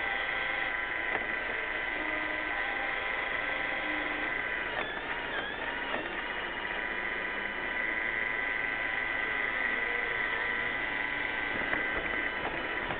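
iRobot Roomba 600-series robot vacuum running: a steady whir from its vacuum and brush motors, with a thin high whine held throughout.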